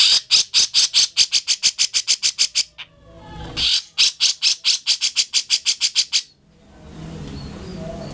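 Grey-cheeked bulbul (cucak jenggot) in full song: two runs of rapid, repeated sharp notes, each about two and a half seconds long and quickening as it goes, with a short pause between them. About six seconds in, the calling stops.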